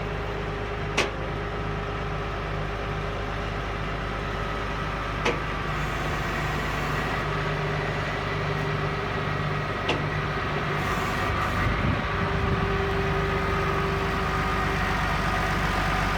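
Massey Ferguson 6290 tractor's diesel engine running steadily, with three sharp clicks about four to five seconds apart and a slight rise in level near the end.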